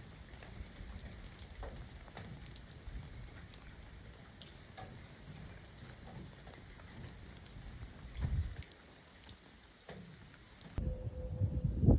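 Rain falling steadily, with scattered single drops ticking. A little before the end it cuts off suddenly and gives way to louder low rumbling with a faint steady tone.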